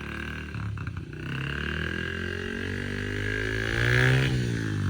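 Motor of a child's powered bike speeding up steadily over a few seconds, then dropping back near the end.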